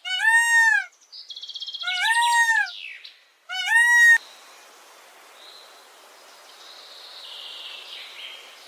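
Three short, high animal calls, each rising and then falling in pitch, meow-like, about a second and a half apart in the first four seconds, with a brief buzzy trill between the first two. Faint background noise follows.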